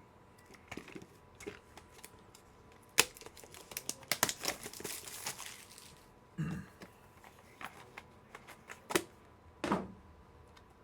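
Plastic card holders and packaging being handled: a few sharp clicks, a stretch of crinkling about four seconds in, and a dull knock a little after.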